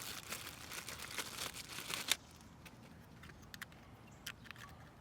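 Crinkling, rustling sound of plastic being handled, which stops abruptly about two seconds in, followed by a few faint light clicks and taps.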